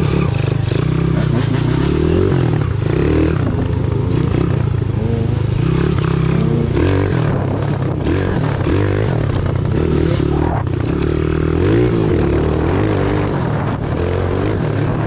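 Pit bike engine revving up and down as it is ridden through mud, its pitch rising and falling over and over, with scattered knocks from the bike.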